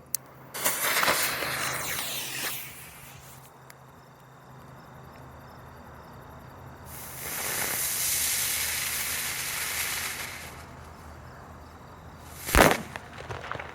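Ground bloom firework with a report going off: a hissing rush of sparks for about two seconds near the start, then a longer hissing spin of about four seconds, ended by one loud bang about twelve and a half seconds in, with a few small cracks after it.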